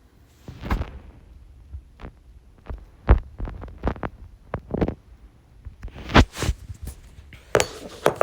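Irregular sharp knocks and clacks of plastic mini hockey sticks and puck, several a second in spells, with the hardest hits about three seconds and six seconds in.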